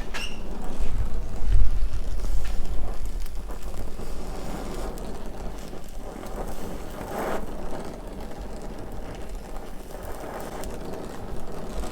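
Gas torch flame rushing steadily while bronze rod is brazed onto an oil pickup tube. It is louder for the first few seconds and then quieter.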